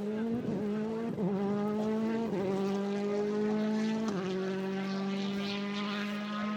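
A rally car's engine under full acceleration, shifting up through the gears. The pitch drops at each of about four quick gear changes, then climbs slowly until the next.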